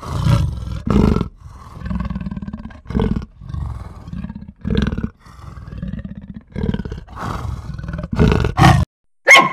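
Leopard giving its rasping sawing call: a run of hoarse grunts, louder and softer strokes alternating, breaking off shortly before the end.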